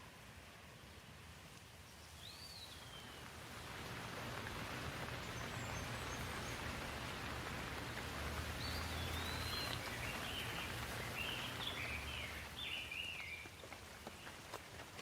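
Steady rain falling, swelling from about three seconds in and easing again near the end. A bird chirps briefly early on and several times in the second half over the rain.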